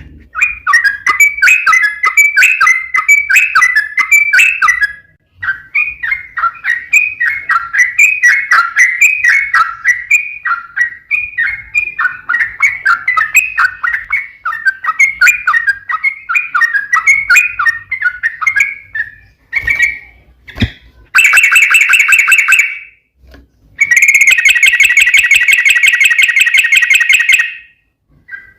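Yellow-vented bulbul (trucuk) song: a long run of quick, bubbling chattering notes, then after a short break two dense rapid trills near the end. It is the loud, long-phrased 'ropel' singing used as a lure to set other trucuk birds singing.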